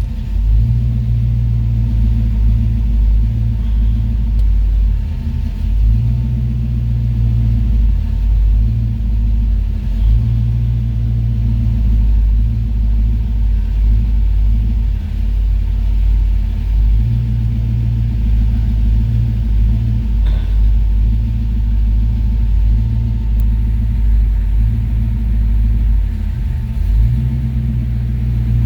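Car engine idling with a steady, deep rumble.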